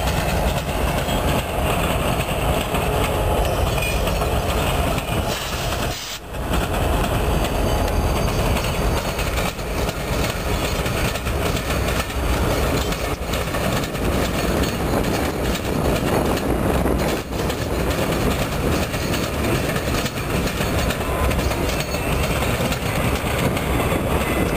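Norfolk Southern diesel freight locomotives, several in a row, passing close by, their engines rumbling and steel wheels running over the rails in a steady din.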